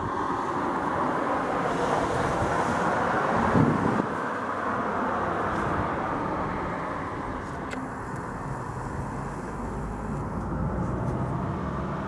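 Thunder rolling: a long, deep rumble that builds for about three and a half seconds and then slowly dies away.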